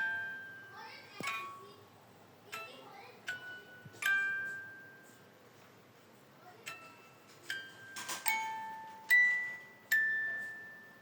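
Sparse bell-like struck notes, glockenspiel or toy-xylophone style, each ringing out and fading, played one at a time at uneven intervals; the loudest come near the end.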